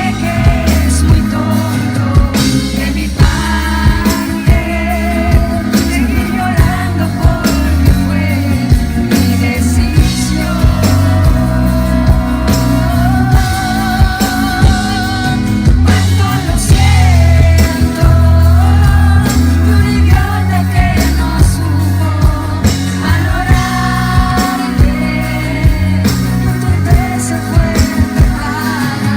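A singer with band accompaniment: a pop-rock song with a sung melody over bass and drums. The voice holds long notes with vibrato.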